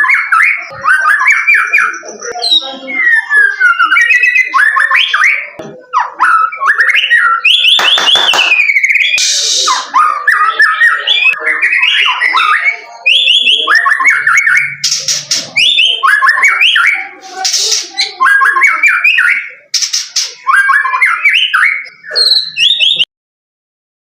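White-rumped shama (murai batu) singing continuously: fast, varied whistled phrases with harsh, scratchy notes mixed in. The song cuts off suddenly near the end.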